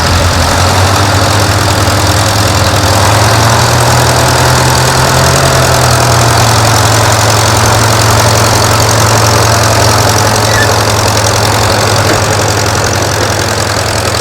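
Antique farm tractor engine running steadily at low speed, its pitch rising slightly a few seconds in and then settling.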